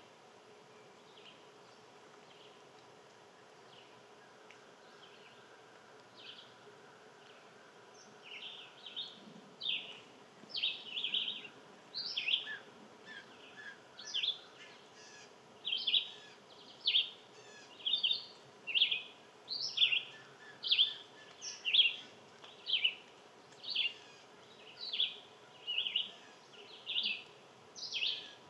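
A small animal giving short, sharp chip calls over and over, faint and scattered at first, then from about eight seconds in loud and regular at about one a second.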